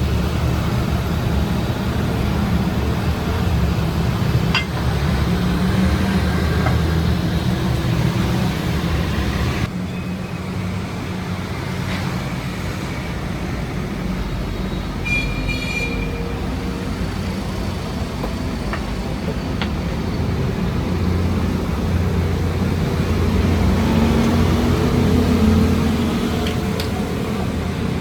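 Machinery running with a steady low rumble that shifts abruptly about ten seconds in, with a brief high tone near the middle.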